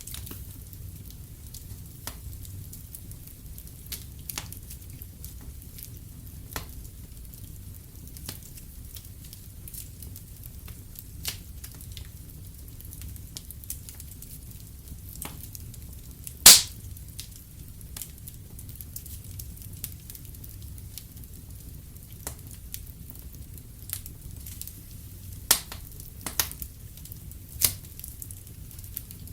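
Wood fire in a fireplace crackling: a steady low rumble with scattered sharp pops, the loudest about halfway through and several more close together near the end.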